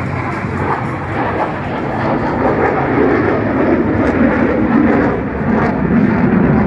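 Aircraft engine noise: a loud, steady rush that swells slightly now and then.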